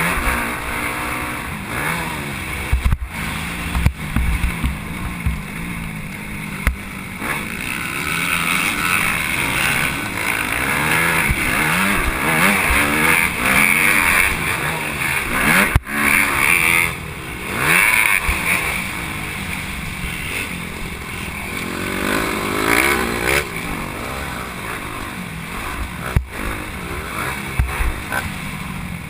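Motocross dirt bike engine revving hard and falling off again and again as the rider works the throttle around the track, with a few sharp knocks from bumps.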